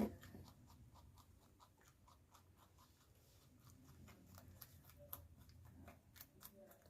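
Faint crunching clicks, several a second, of an animal chewing raw carrot.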